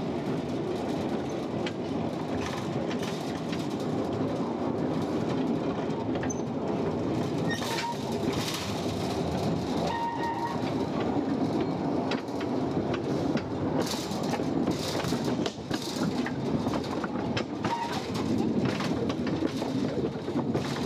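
Narrow-gauge copper mine railway train running along its track: a steady rumble with irregular clattering and rattling of the wheels and cars, and a few brief squeaks.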